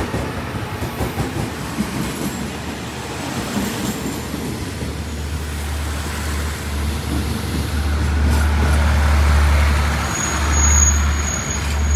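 State Railway of Thailand diesel-hauled express train at the platform, rumbling. About five seconds in, a steady low diesel drone comes in and grows louder, and a thin high squeal sounds near the end.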